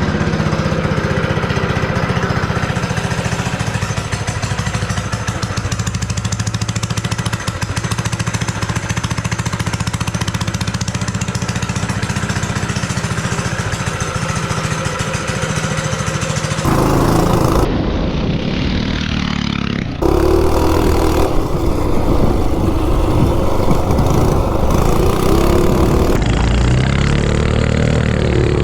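Coleman RSV minibike's 196cc single-cylinder engine, governor removed, running through a short open header pipe. It holds a steady speed for about the first 17 seconds, then the sound changes abruptly a few times, with the pitch rising and falling near the end.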